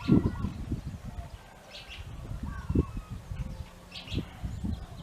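Small birds chirping in short bursts now and then, over irregular low thumps and rumbles.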